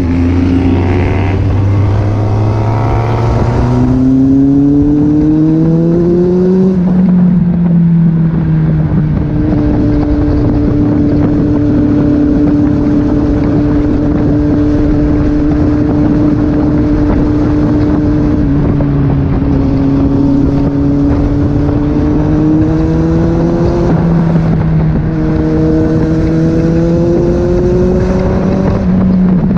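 Kawasaki Z800 inline-four engine under way, its pitch rising as it pulls and falling back at each upshift: one pull in the first seven seconds, about ten seconds at a steady cruise, then two more pulls each ending in a shift near the end. A constant rush of wind noise runs underneath.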